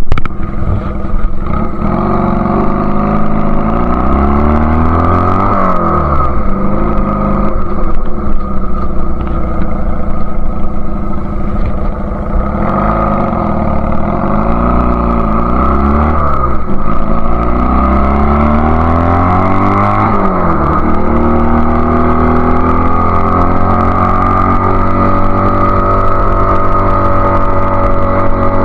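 Honda Rebel CA125 engine running through an aftermarket BSM/Highway Hawk exhaust, its revs rising and falling several times, then holding a steady pitch for the last third.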